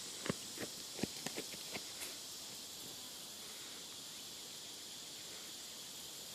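Steady high-pitched chirring of insects in the background, with about seven sharp clicks in the first two seconds.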